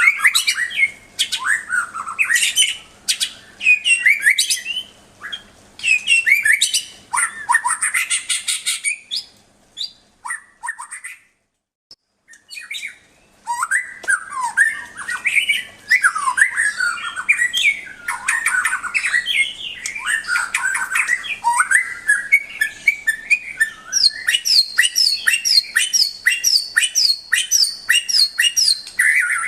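White-rumped shama singing a loud, varied song of whistled and harsh phrases, with a break of about two seconds just before the middle. Near the end it repeats one quick high note about eleven times.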